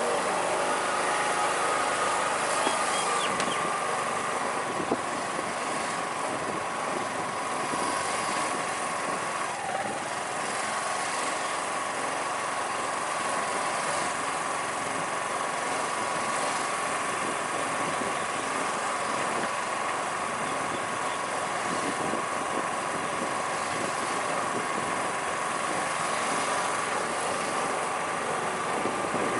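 Several sports car engines idling together, a steady running drone with a constant high whine and no pass-bys.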